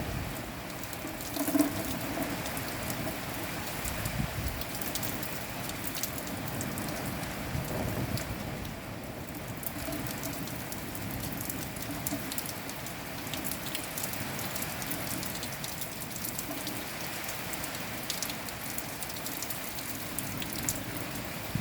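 Steady rain falling, with many separate drops ticking on a surface and a brief louder thump about a second and a half in.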